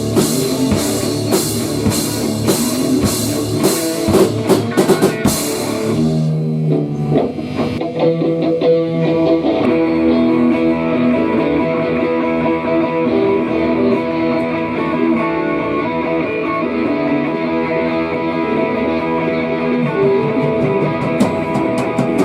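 Instrumental rock music: a drum kit with cymbals crashing and a guitar playing. About six seconds in, the drums and cymbals drop out and the guitar carries on alone with sustained, ringing notes.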